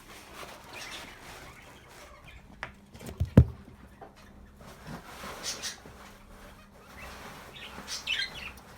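Birds calling and chirping in short bursts, with one loud knock about three and a half seconds in.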